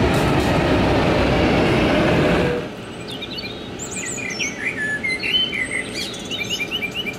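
A Siemens Vectron electric locomotive and double-deck coaches rolling past close by, a steady loud rolling noise that cuts off about two and a half seconds in. After that, small birds chirping and twittering, many short calls.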